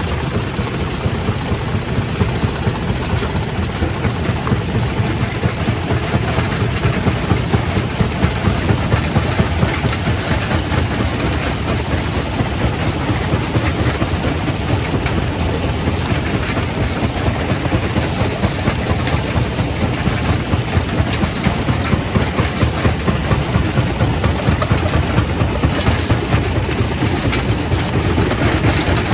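Primary rock crusher in a quarry running under load, crushing stone: a steady, loud, heavy rumble with constant rattling clatter.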